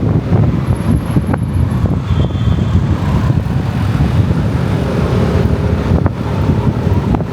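Loud, steady wind buffeting on the microphone and road noise from riding on a moving motorcycle through city traffic.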